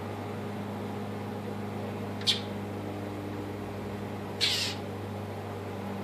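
Two short, harsh, high calls from a bird in the yard's trees, the mobbing calls of a bird dive-bombing a cat: a sharp one about two seconds in and a slightly longer, rougher one about four and a half seconds in. A steady low hum runs underneath.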